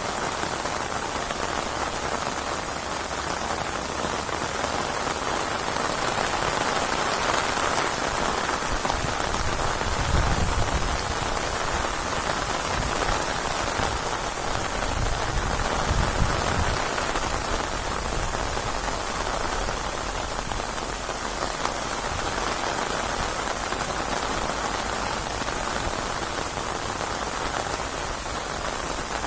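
Steady heavy rain falling in a rainstorm, an even hiss of drops, with two brief low rumbles about ten and sixteen seconds in.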